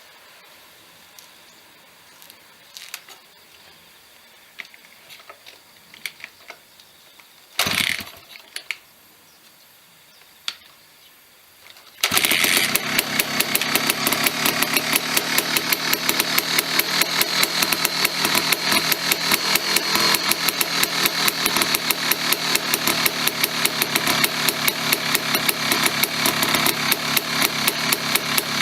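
GasGas JTR250 two-stroke single-cylinder trials-bike engine, freshly fitted, firing up about twelve seconds in and then idling steadily with a rapid, even popping beat. Before it starts, light clicks and knocks and one louder thump.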